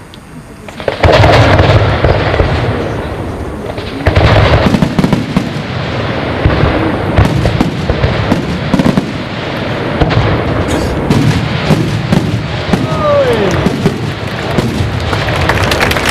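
Fireworks display: a sudden loud burst of shells about a second in, another about four seconds in, then continuing booms and crackling.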